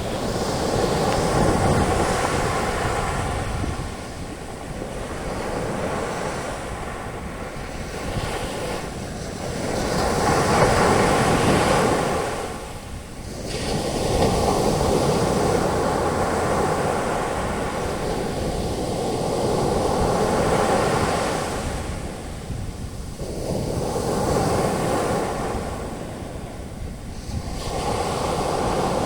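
Ocean waves breaking and washing up the beach, the foam rushing in surges that swell and ebb every few seconds.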